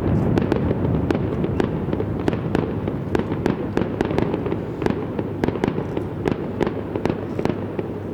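Aerial fireworks crackling and bursting: a dense run of sharp crackles, several a second, over a continuous rumble of shell bursts. The sound slowly dies down toward the end.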